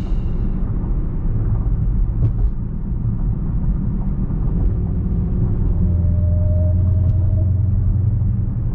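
Low, steady rumble of a car's engine and road noise heard from inside the cabin, growing a little heavier about six seconds in.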